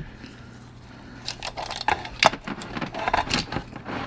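Light metallic clicks and clinks, irregular and spread over the last three seconds, as the saw chain of a Stihl MS500i chainsaw is loosened and handled on its bar.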